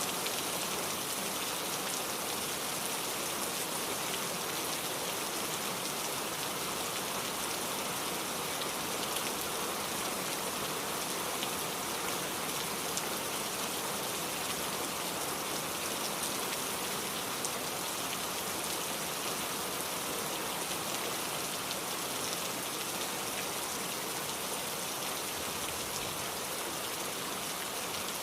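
Steady rain falling, with the patter of drops on a surface.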